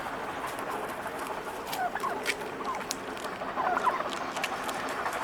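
Male wild turkeys clucking, short calls in two clusters about two and four seconds in, with scattered sharp ticks.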